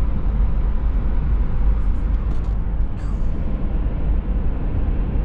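Steady low road and engine rumble inside a Toyota 4Runner cruising on the highway, with a few faint ticks about two to three seconds in.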